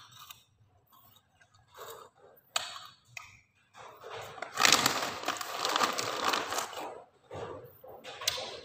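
Close-up crunching of puffed vegetable crackers being bitten and chewed: short crunches, then a loud, dense crackling stretch of about three seconds halfway through, then a few more short crunches.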